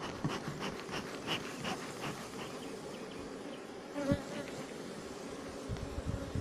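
Honeybees buzzing in a steady, continuous hum. Scattered clicks come in the first couple of seconds, with a sharp thump about four seconds in and a few low knocks near the end.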